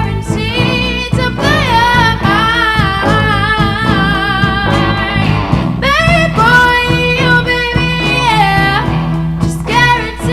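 Live rock band playing a song: a voice sings long held and gliding notes over electric guitar, bass, keyboards and drums.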